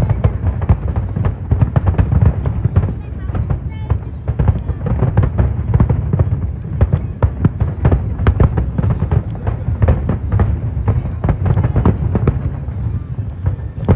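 Aerial fireworks display going off in a dense barrage: sharp bangs and crackles several times a second over a continuous low rumble of bursting shells.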